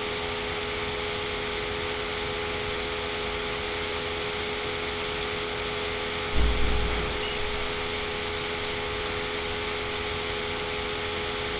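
Steady background hiss with a constant electrical hum, and one brief low thump about six seconds in.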